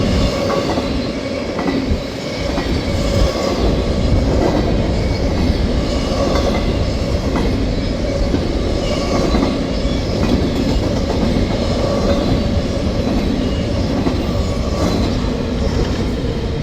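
Freight train rolling past at close range, a steady rumble of cars with irregular clicks from the wheels over the rail joints.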